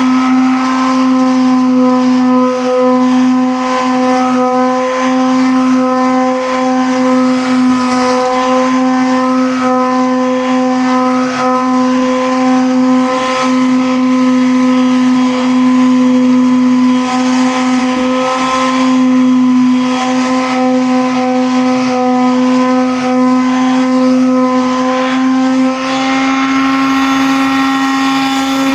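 A motor running steadily at one constant pitch, a loud hum with a rough noisy edge.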